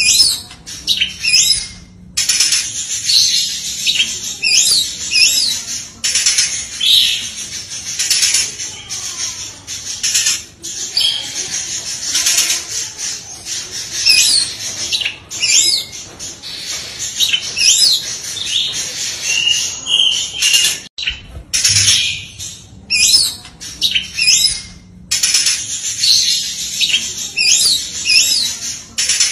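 Oriental magpie-robin singing loud, rapid strings of sharp whistled and chattering phrases in quick succession, with mimicked fill-in phrases, the continuous burst style kept as a training master for songbirds.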